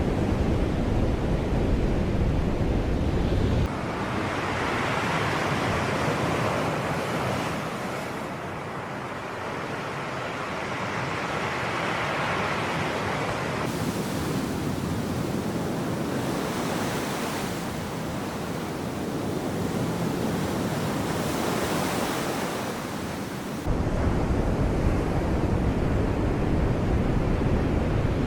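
Sea waves washing in and breaking in slow surges, each swelling and fading over several seconds. Wind rumbles on the microphone at the start, stops suddenly about four seconds in and cuts back in suddenly near the end.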